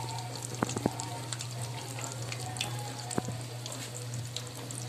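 Breaded cheese sticks frying in hot cooking oil in a pan, a continuous sizzle with scattered pops and crackles, over a steady low hum.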